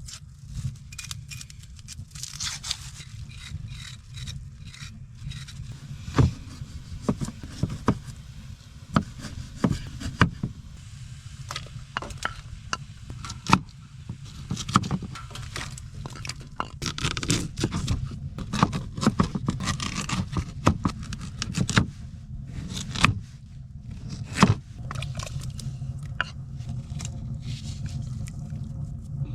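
Repeated scraping, clicks and sharp knocks, as of gear being handled, over a steady low rumble.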